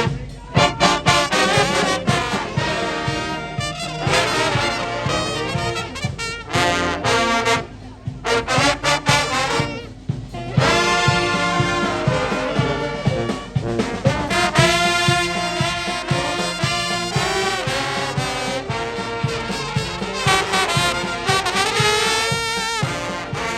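Jazz music on brass instruments, with trombone and trumpet lines to the fore and short breaks about eight and ten seconds in.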